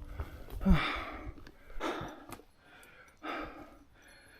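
A hiker breathing hard on a steep climb: a short voiced exhale about a second in, then heavy breaths roughly every second and a half.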